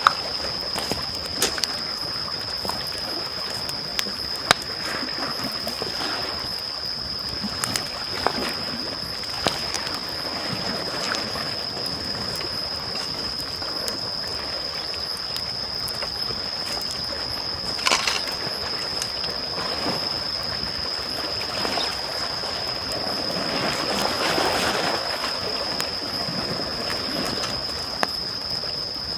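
Campfire wood crackling, with scattered sharp pops and one louder snap past the middle, over small waves lapping at the shore. One wave washes in more loudly about three-quarters of the way through. A thin, steady high tone sits underneath.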